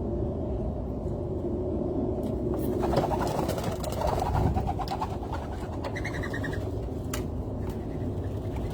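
Dove cooing, a low pulsed call about three to four seconds in, with a short higher bird chirp near six seconds, over a steady low background rumble.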